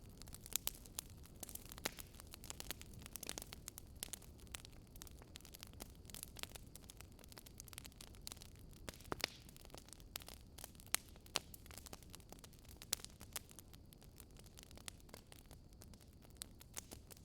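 Crackling wood fire: irregular sharp pops and snaps over a faint steady low rumble.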